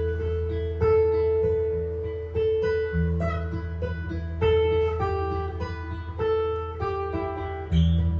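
Improvised jazz guitar: single plucked notes and chords entering every second or so over held low bass notes, the bass shifting about three seconds in and again near the end.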